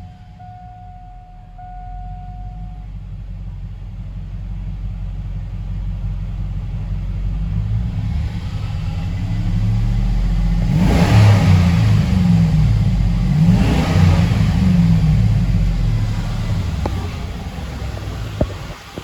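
Cadillac Escalade EXT's 6.0-litre LQ9 V8 running, its engine speed climbing gradually and revved up and down about halfway through, then dropping back toward idle near the end.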